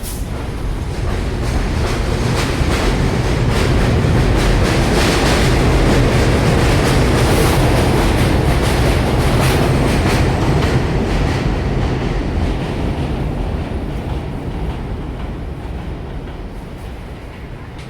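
R42 New York City subway train moving past, its wheels clacking over the rail joints in a quick run of clicks over a low rumble. It grows louder for the first five or six seconds, then fades away.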